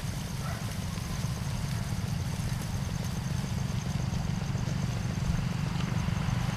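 Low steady rumble of an approaching MEMU electric multiple-unit train, growing slightly louder as it nears.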